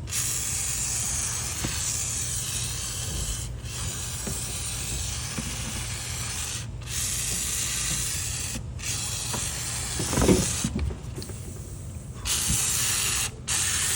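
Foaming sprayer wand hissing as it sprays foam, cut off briefly several times and paused for a second or two near the end before spraying again. A louder low bump about ten seconds in.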